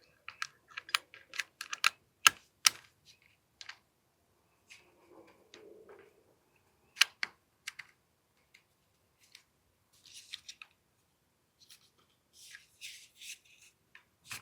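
Irregular sharp clicks and light knocks of small pistol parts being handled and fitted while an AAP-01 gas airsoft pistol is reassembled, with short runs of rapid scratchy clicking near the end.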